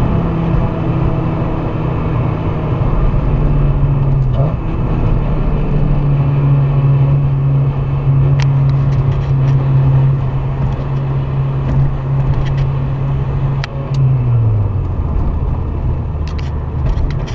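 Honda K24A2 2.4-litre inline-four in a Civic Si running steadily under way, heard with road noise. Its pitch eases down about four seconds in and falls more sharply near the end as the revs drop. A few sharp clicks come in the second half.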